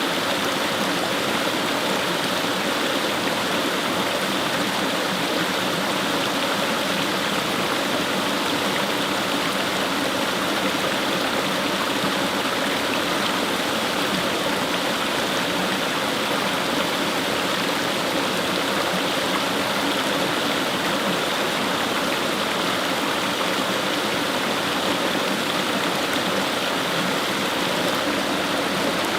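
Fast-flowing stream of water rushing and splashing over its bed, a steady, unbroken sound.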